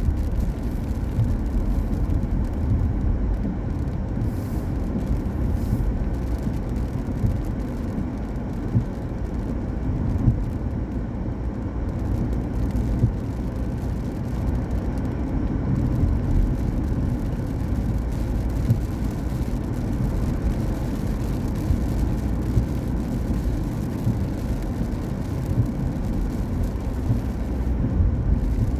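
Car driving on a wet road: a steady low rumble of tyre and road noise.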